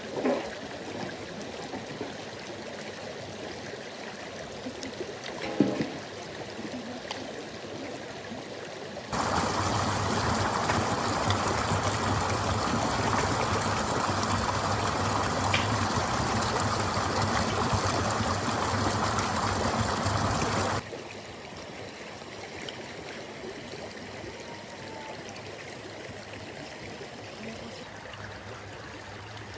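Freezing mountain river running steadily. About nine seconds in it suddenly gets louder and closer, and some twelve seconds later drops back just as suddenly; a couple of faint knocks near the start.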